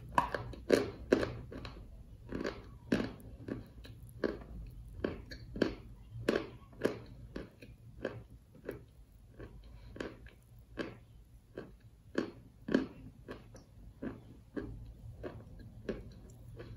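A mouthful of crunchy clay being chewed close to the microphone: crisp, crumbly crunches about twice a second, getting fainter toward the end as it breaks down into paste.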